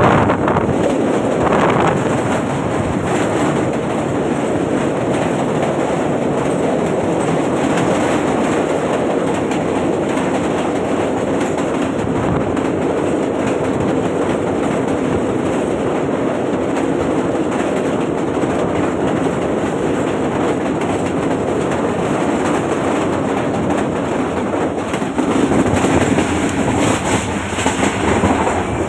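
Passenger train running at speed, heard from an open carriage doorway: a steady loud rush of wheels on rail with clickety-clack, partly over a steel truss bridge, growing louder over the last few seconds.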